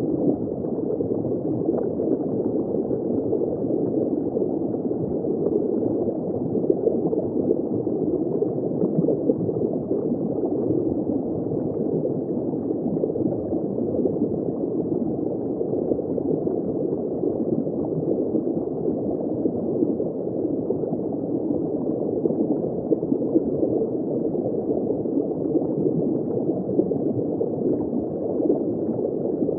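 Water bubbling and gurgling, heard from under the surface in shallow water: a steady, muffled wash of small bubbles with no high frequencies.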